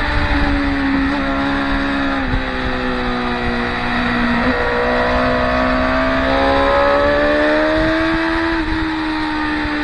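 Racing motorcycles running through a corner at high revs, several engines overlapping. Their pitch sags over the first few seconds, climbs as they accelerate, then drops suddenly near the end as a gear changes.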